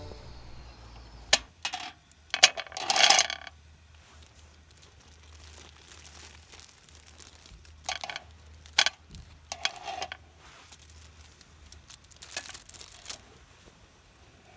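Scattered light clicks, taps and short rustles of small objects being handled, in a few clusters separated by quiet stretches.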